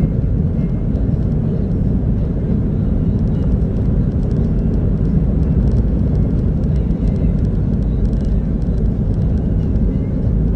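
2014 Jeep Wrangler Unlimited Rubicon driving: a steady low rumble of engine and tyres, with faint light ticking throughout.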